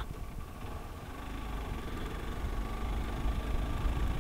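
Hero Xpulse 200 4V motorcycle's single-cylinder engine running as the bike is ridden along a gravel track, growing gradually louder.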